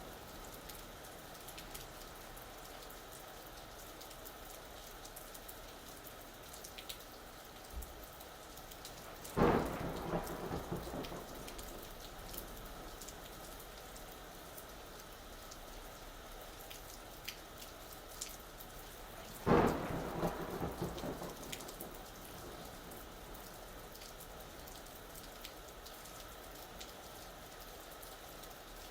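Steady rain with scattered drops ticking, broken twice by a sudden thunderclap, about ten seconds apart, each trailing off in a short rumble.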